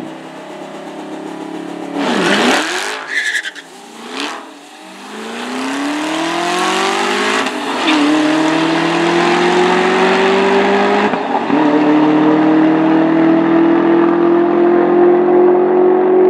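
Ford GT engine launching hard and accelerating flat out down a drag strip. A loud, harsh rush of noise comes about two seconds in, then the engine note climbs steadily in pitch, drops sharply at upshifts about eight and eleven seconds in, and climbs again.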